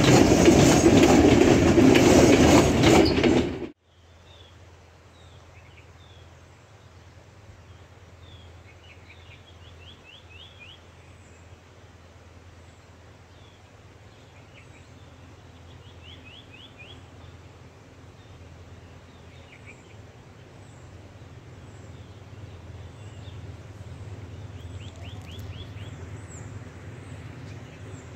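Railway passenger coaches rolling past close by, wheels clattering over the rail joints, cut off abruptly about four seconds in. Then a quiet hush with birds chirping in short trills over a low, distant hum that slowly grows louder.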